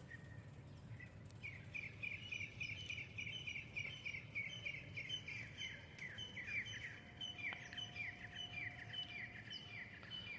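A songbird singing a long run of short, quick, falling chirps, about four a second, starting about a second in. A low steady background rumble sits underneath.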